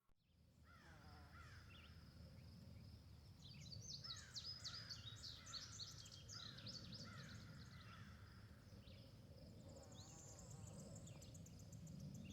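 Faint chorus of bird calls, many quick chirps rising and falling in pitch, busiest a few seconds in, over a low steady rumble.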